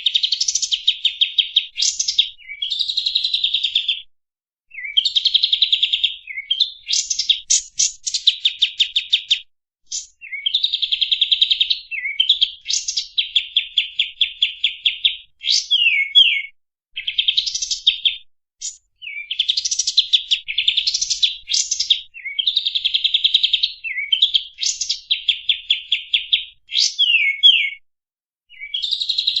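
Kapas tembak bulbul song: phrases of fast, rattling repeated notes, broken by short down-slurred whistles, one after another with brief pauses between them. It is a masteran recording, birdsong played to cage birds to teach them.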